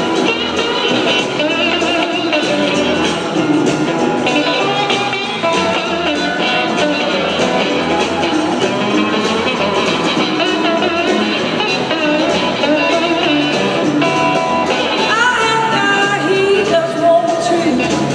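Live blues-rock band playing, with electric guitar and singing.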